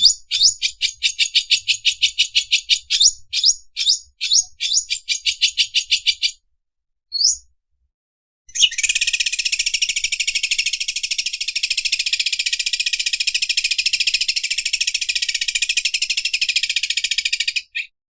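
Green leafbird (cucak ijo) singing its 'mesin obras' song, named for an overlock sewing machine: a fast run of high chirps, a single rising whistle, a short pause, then a long, continuous, very rapid machine-like rattling trill that stops abruptly.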